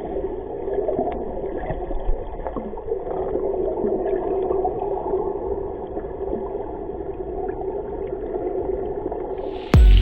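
Creek water rushing steadily, heard muffled and dull. Music comes in sharply near the end.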